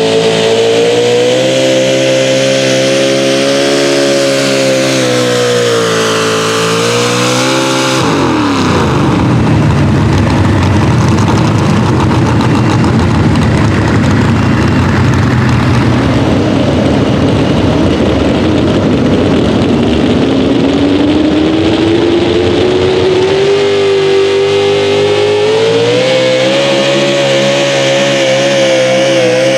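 Pulling truck's engine running at high revs under load. About eight seconds in the sound changes abruptly to a harsher, noisier engine sound, and its pitch then climbs steadily as the revs build back up.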